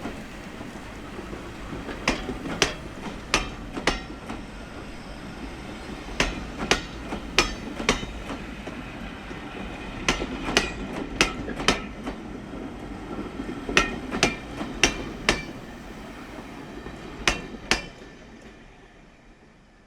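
A train running past, its wheels clicking sharply over the rail joints in pairs, bogie after bogie, over a steady rumble. The sound dies away near the end as the train moves off.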